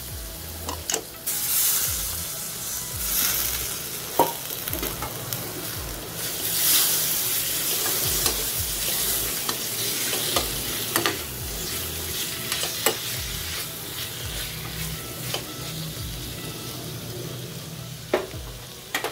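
Chopped tomatoes sizzling as they fry in hot oil and spice paste in a steel pan, being stirred and sautéed. The sizzle swells and fades as they are turned, with a few sharp knocks of the spatula against the pan.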